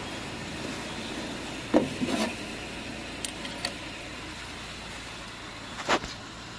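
A few sharp knocks and clinks, with the loudest near the start and another near the end, over a steady background hum.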